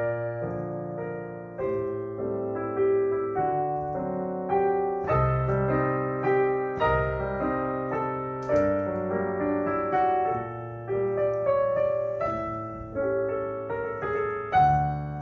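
Piano playing a melodic piece, notes struck one after another over held bass notes.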